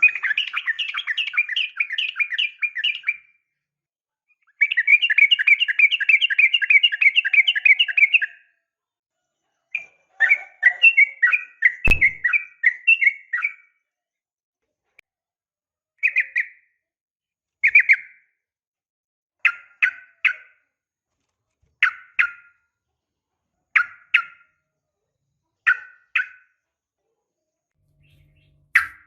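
Yellow-vented bulbul calling: three long runs of rapid chattering, then short separate phrases about every two seconds. A single sharp click sounds about twelve seconds in.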